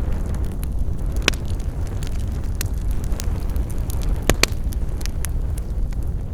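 Campfire burning with a steady low rumble and scattered sharp crackles and pops of burning wood, the loudest pops about a second in and twice in quick succession past the middle.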